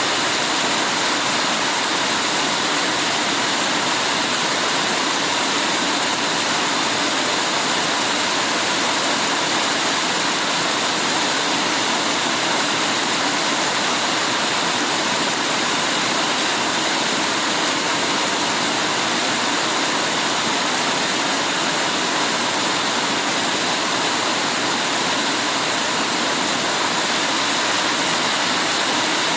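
Heavy rain falling in a steady, even hiss, with no let-up.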